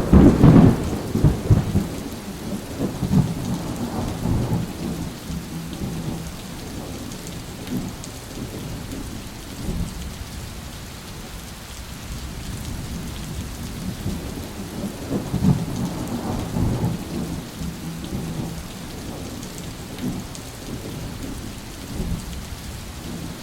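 Heavy rain falling steadily in a thunderstorm. A thunderclap that hits just before the start rumbles away over the first few seconds, and another low roll of thunder swells and fades about two-thirds of the way through.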